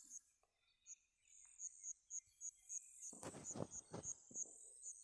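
Faint background chirping of a cricket: short, high chirps repeating steadily, two or three a second, with some faint low rustling in the middle.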